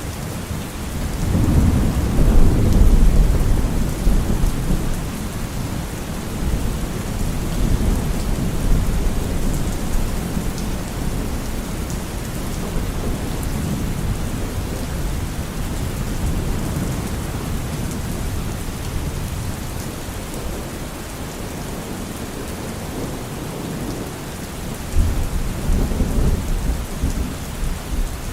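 Steady heavy rain with rolling thunder. A long low rumble swells about a second in and is loudest a couple of seconds later, then keeps rumbling more quietly. A second rumble breaks in suddenly near the end.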